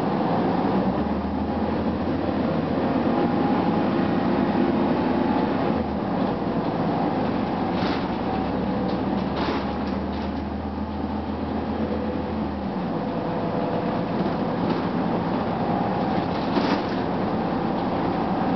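Running noise of a 2004 Gillig Phantom transit bus with a Cummins ISM diesel and its HVAC on: a steady mechanical hum and rumble, with a deep drone that comes in twice for several seconds and a few sharp rattles and clicks.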